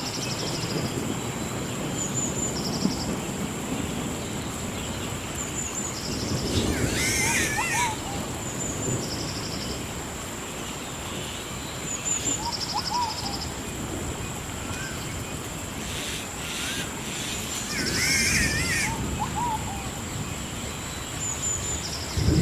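Rainforest ambience: a steady high-pitched drone with short trills repeating every few seconds and small chirps, and warbling bird calls twice, about 7 and 18 seconds in, over a low rumbling background. A louder low rumble sets in at the very end.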